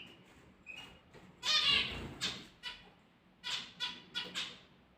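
Small birds chirping in a string of short, high calls, with one louder, longer call about one and a half seconds in.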